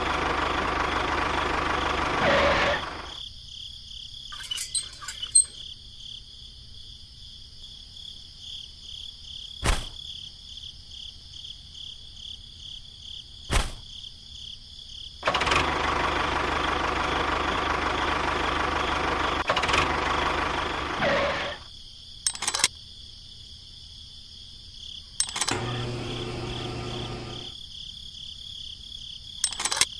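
Small motor of a miniature model machine running in two bursts, switched on and off abruptly: about two and a half seconds at the start, then about six seconds in the middle. A steady high hum runs underneath, with a few sharp clicks in between.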